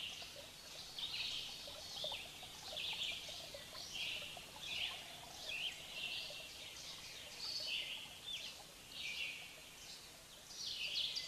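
Birds chirping: short, high, quickly falling chirps, about one or two a second, fairly faint over a light steady hiss.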